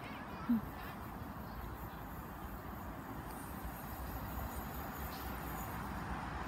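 Tyne and Wear Metro train of two coupled Metrocars approaching from a distance, a faint low rumble that slowly grows. A brief pitched call or squeak sounds about half a second in.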